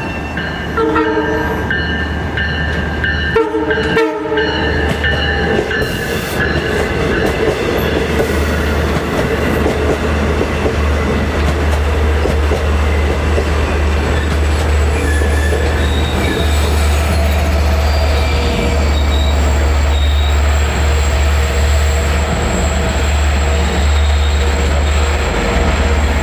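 Long Island Rail Road train sounding two short horn blasts, then passing close by with a loud, steady rumble of wheels on rail and a thin high wheel squeal.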